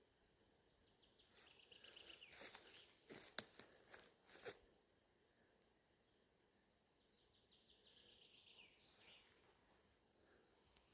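Faint birdsong outdoors: a short run of rapid high notes about a second in and a rapid trill that falls in pitch from about seven to nine seconds in, with a few sharp clicks and crunches between three and five seconds in.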